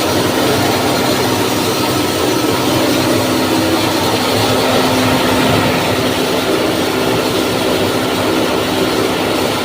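Posho mill (maize hammer mill) running, a loud steady mechanical drone with a constant hum under it.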